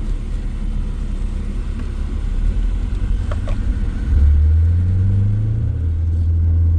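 Vehicle engine running with a low rumble, picking up revs about four seconds in and then holding a steady, louder drone.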